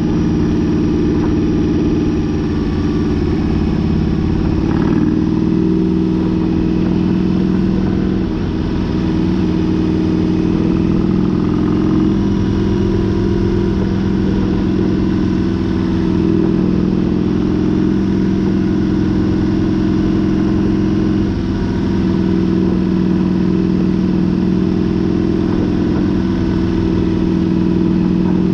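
Harley-Davidson motorcycle's V-twin engine running steadily under way, heard from the bike itself, with the engine note easing off briefly a few times as the throttle is let off.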